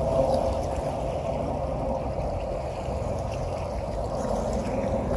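Tour boat on river rapids: a steady engine hum under a constant rush of water and wind.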